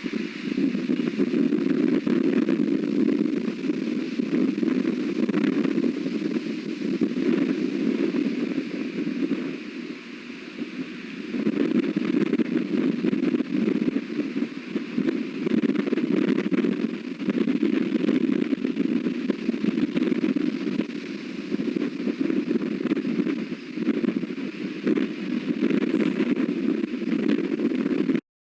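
Strong wind buffeting an outdoor nest-cam microphone: a steady low rumble that swells and eases in gusts, dropping off briefly about ten seconds in. It cuts off abruptly near the end.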